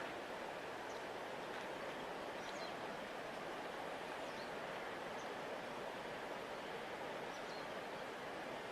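Steady rushing of a large river flowing past the bank, with a few faint, short, high bird chirps scattered through it.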